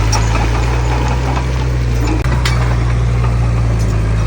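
Heavy diesel engine of earthmoving equipment running steadily, a deep even drone with a brief dip in level about two seconds in.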